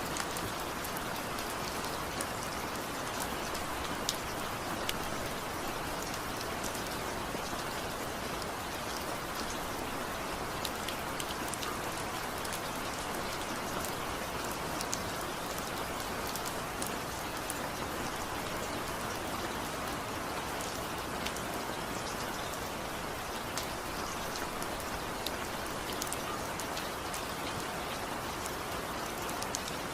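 Steady rain falling, an even hiss with the patter of individual drops striking a surface. No thunder or music.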